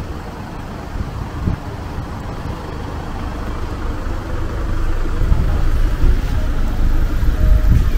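Car engine idling with a low rumble that grows louder from about five seconds in.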